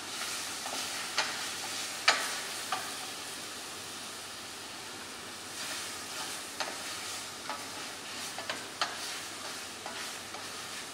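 Chicken pieces and chopped garlic sizzling in hot oil in a stainless steel saucepan, stirred with a wooden spatula that knocks and scrapes against the pan at irregular moments, the loudest knock about two seconds in. The garlic is frying until it turns fragrant.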